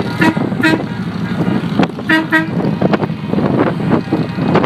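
Motorcycle engines running in a ride, with a vehicle horn giving short toots: two quick beeps near the start and two more about two seconds in.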